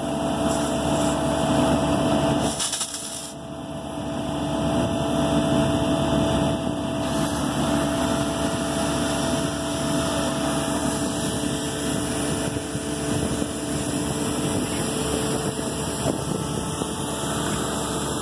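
An engine running steadily at a constant pitch under a steady hiss, dipping briefly about three seconds in.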